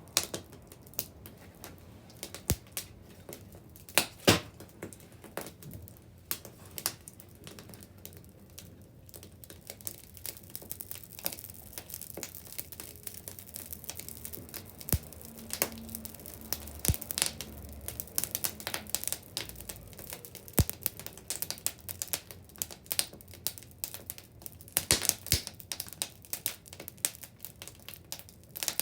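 Wood bonfire crackling and popping: irregular sharp snaps from burning wood, with a few louder pops about four seconds in and near the end, and denser crackling through the second half.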